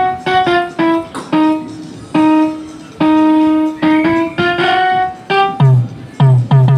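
Digital keyboard notes triggered by touching peppers wired through a Makey Makey, playing a melody one note at a time. Some notes are held about half a second, and three short low notes come near the end.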